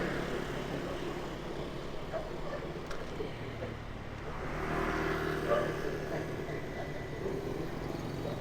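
Street traffic noise, with motorbike and car engines running and passing; one passes more loudly about five seconds in.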